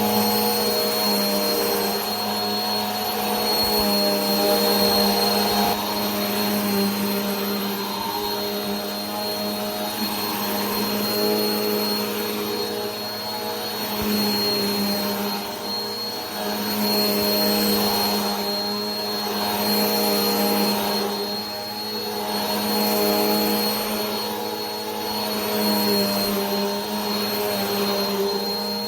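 Vacuum cleaner running continuously: a steady motor hum with a high whine and a rush of air, swelling and easing slightly every few seconds.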